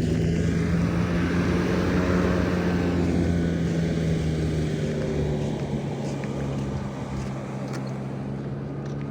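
A vehicle engine running steadily with a constant hum. It grows gradually quieter from about halfway through.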